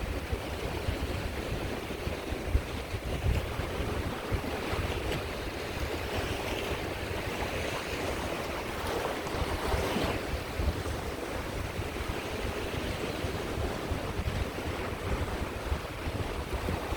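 Caspian Sea waves washing onto the shore in a steady surf, with wind buffeting the microphone in low gusts.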